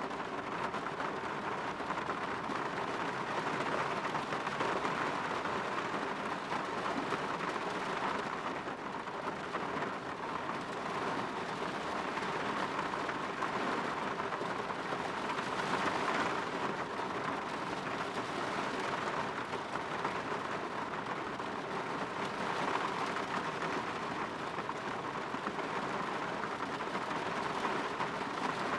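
Steady rain falling and pattering on a window, with no distinct thunderclap.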